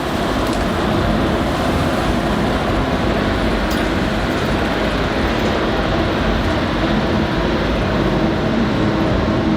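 Tornado wind making a loud, steady rushing noise, with a heavy low rumble of wind on the microphone.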